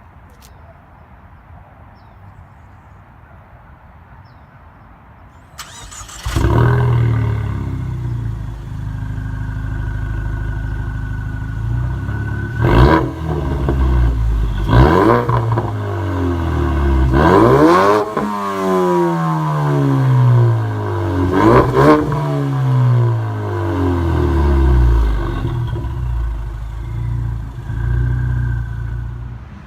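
2015 Ford Mustang EcoBoost's turbocharged 2.3-litre four-cylinder, heard through an exhaust with its mufflers and resonator deleted, starts from cold: it catches about six seconds in with a flare and settles to idle. It is then revved about five times, each rev sweeping up and falling back to idle, with a deep, loud exhaust tone.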